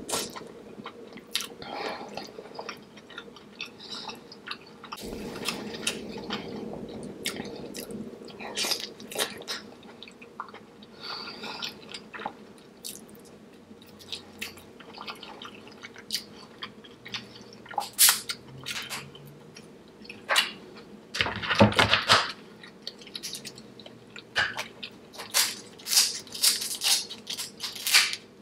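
Close-miked chewing and biting of seafood boil, with irregular wet smacks, clicks and crunches. A louder cluster comes about three-quarters of the way through.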